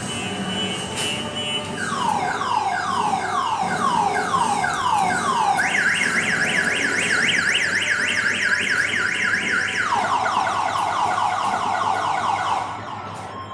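Electronic car alarm siren cycling through its tones. It starts with falling sweeps at about three a second, moves to a faster, higher warble, then returns to the falling sweeps and cuts off near the end.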